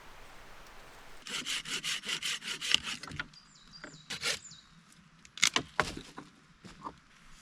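Hand saw cutting through wood in a quick run of about ten strokes, roughly five a second, then a few separate scraping strokes near the end.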